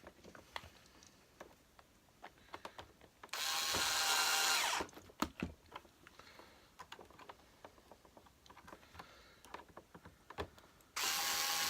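Cordless power screwdriver running in two short bursts of about a second and a half each, driving screws back in, with light clicks and knocks of handled parts between.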